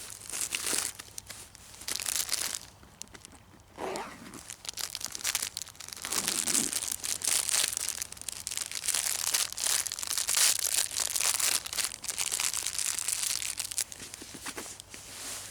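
Footsteps crunching through snow, one step after another, with a short lull about three seconds in.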